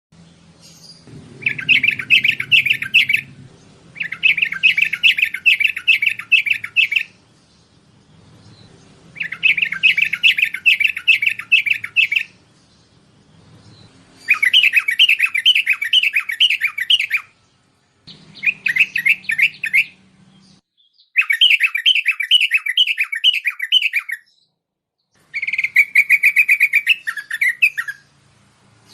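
Bulbul (merbah) singing: seven phrases of quick repeated chirping notes, each lasting two to three seconds, with short pauses between them.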